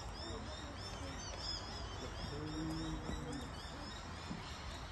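Small birds chirping in the surrounding bush: short high chirps repeating rapidly and overlapping, over a steady low background rumble. A brief low hum sounds about two and a half seconds in.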